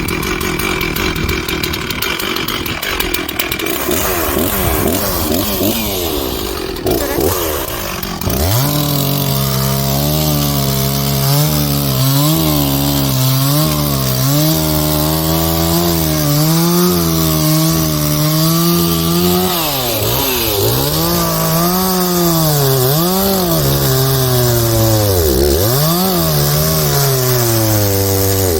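Two-stroke chainsaw cutting into a fallen cottonwood trunk. After an uneven first few seconds the engine runs steadily at high revs under load, then in the last third its pitch drops and recovers several times as it bogs in the cut.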